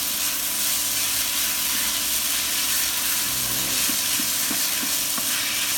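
Cold-water-soaked glass noodles sizzling in hot oil in a frying pan as they are stirred and turned with a wooden spatula and chopsticks: a steady frying hiss.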